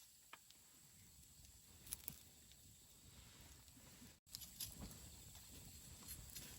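Wood campfire crackling faintly, with scattered sharp pops: two close together about two seconds in and a small cluster a little after four seconds.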